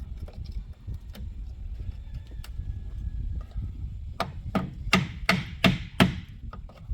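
Hand-tool blows at a building site: scattered light knocks, then a quick run of about six hard strikes, about three a second, each with a short ring, about four seconds in.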